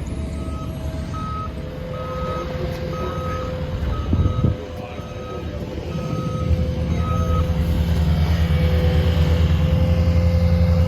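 Vehicle reversing alarm sounding a steady series of short beeps at one pitch, which stop about seven seconds in, over a running engine that grows louder toward the end. A thump about four seconds in.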